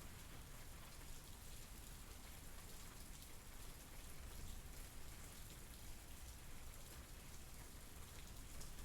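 Steady, soft rain falling, with a fine patter of individual drops.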